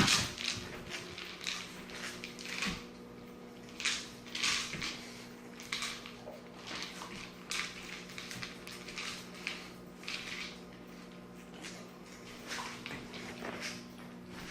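Doberman puppy working a KONG Wobbler food toy for kibble: irregular knocks and rattles of the plastic toy, with crunching, loudest about four seconds in.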